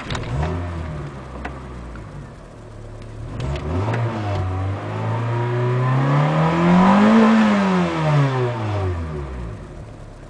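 A 1988 Honda Accord's A20A3 2.0-litre four-cylinder engine idling, then revved once slowly up and back down to idle, heard from inside the car.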